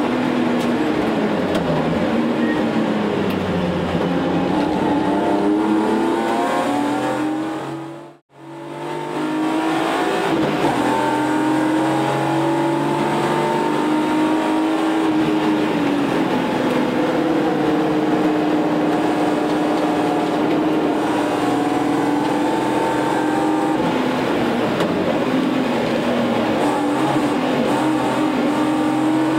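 Car engine heard from inside the cabin while lapping a race track, the revs falling and rising again and again under throttle and lift. The sound briefly drops out about eight seconds in.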